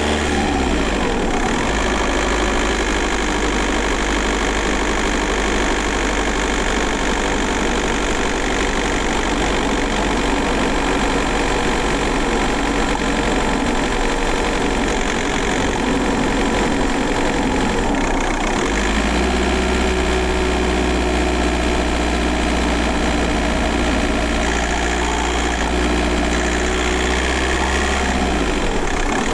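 VW Golf Mk4 4motion's 1.9 TDI four-cylinder turbodiesel (AJM, 85 kW) running steadily, heard from inside the car. The engine pitch falls about a second in, the low note changes around two-thirds of the way through, and the pitch rises again near the end.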